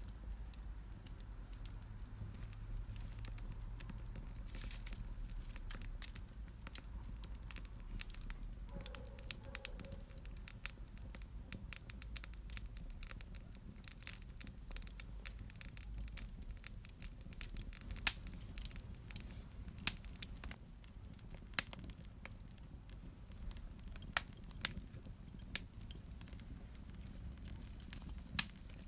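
Wood fire burning in a fireplace, crackling with many small snaps over a low steady rumble, with several sharper pops in the second half.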